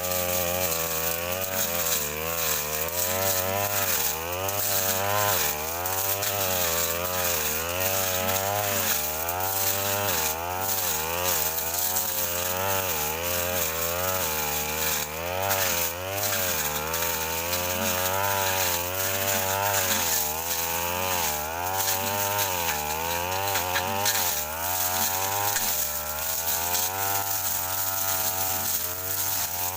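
Brush cutter engine running at high speed. Its pitch dips and recovers over and over as the blade bites into thick brush and grass.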